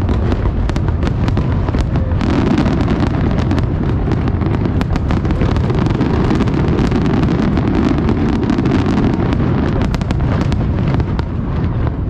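Fireworks display: a rapid, overlapping run of bangs and crackles from bursting shells over a continuous heavy rumble, densest from about two seconds in until near the end.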